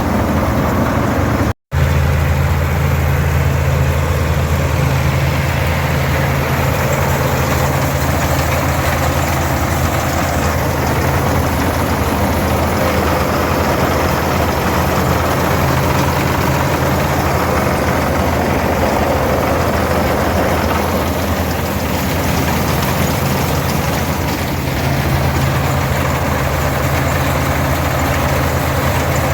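Farmall 460 tractor's 282 diesel engine running steadily under load, pulling an International 82 pull-type combine whose threshing machinery adds a constant mechanical rush. The sound cuts out for a split second near the start.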